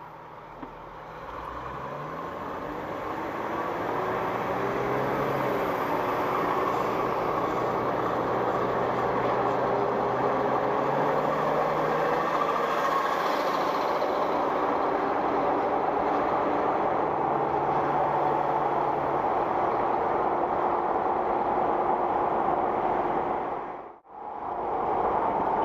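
Motor vehicle engine and road noise building as it accelerates. The engine's pitch climbs and falls back several times, as if shifting through gears, over a steady rush. The sound cuts out abruptly for an instant near the end.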